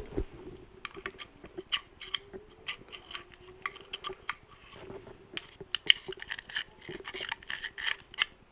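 Small, irregular clicks and scrapes of a tool picking metal debris out of a 2004 Yamaha R1 engine oil strainer. They come thicker near the end.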